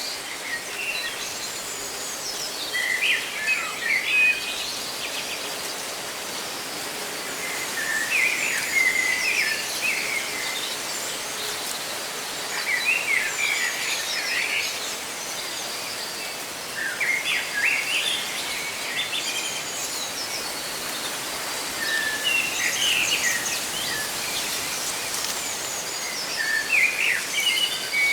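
Songbirds singing short chirping phrases that recur every few seconds, over a steady rustle of leaves in the wind.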